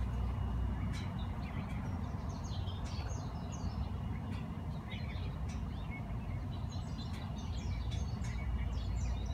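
Small birds chirping in quick bursts, from about a second and a half in and again from about six and a half seconds, over a steady low rumble.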